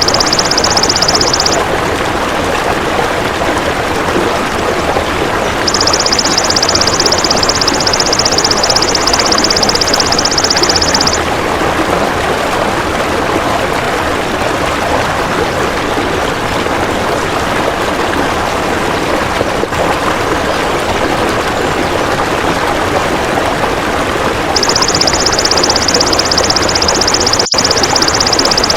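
High, steady buzzing trill of a belalang emas (singing grasshopper) in long bouts: at the start, again for about five seconds from six seconds in, and from about 25 seconds on. Under it runs a steady rushing noise like flowing water.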